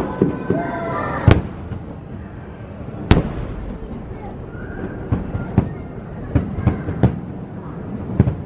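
Fireworks bursting: a sharp bang about a second in, a louder one about three seconds in, then a quick run of smaller bangs.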